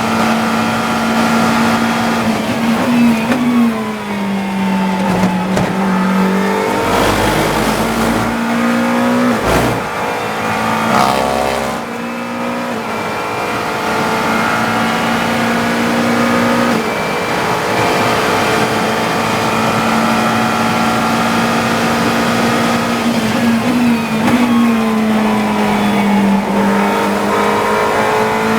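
GT3 race car engine heard from the cockpit, held at high revs on the straights, then dropping through a series of quick downshifts under braking and pulling back up through the gears. This happens twice, once around a few seconds in and again near the end.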